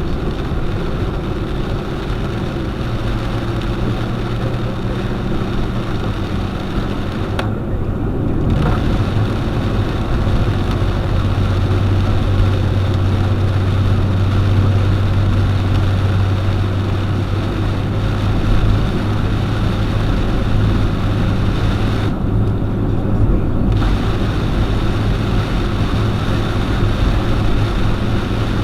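A car driving in the rain: a steady engine hum under the hiss of rain and wet tyres on the road. The high hiss drops away briefly twice.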